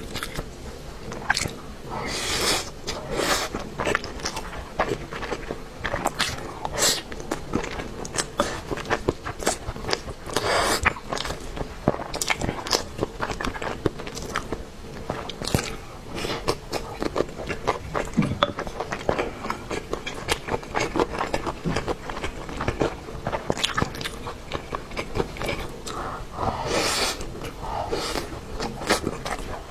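A person chewing and biting mouthfuls of rice with braised pork and tofu, with many irregular clicks and smacks of eating throughout.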